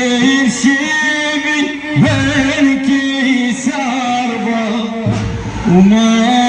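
A male reciter chanting a melismatic Arabic lament (latmiya), with long held notes and ornamented turns, in two or three long phrases.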